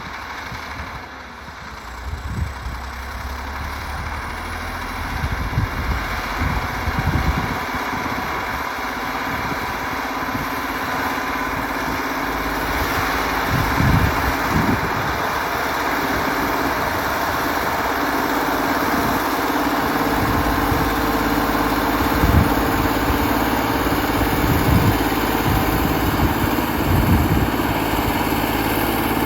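T-150K tractor's diesel engine running steadily while pulling a Kverneland plough, growing gradually louder, with scattered low thumps.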